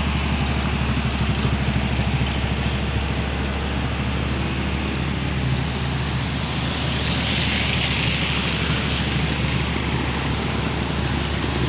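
Diesel engine of a sand-loaded Hino 500 dump truck running steadily under load on a climb. A hiss swells briefly about seven seconds in.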